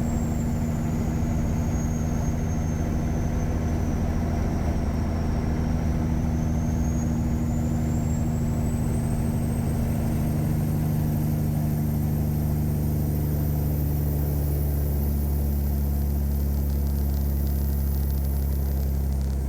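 Caterpillar 3406E inline-six diesel in a Freightliner Classic truck running steadily on the road, a deep even drone with a high whistle above it that sinks and then rises again.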